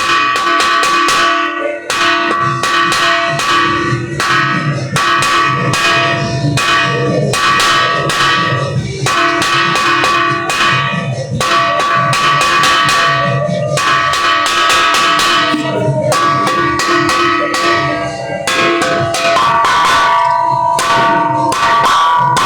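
Several bells of different pitches struck in rapid succession, several strikes a second, their tones ringing on and overlapping in a continuous peal.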